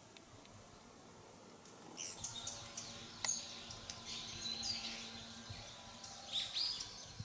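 Small wild songbirds calling: a run of high, thin chirps and twittering notes starting about two seconds in, with a sharp click among them.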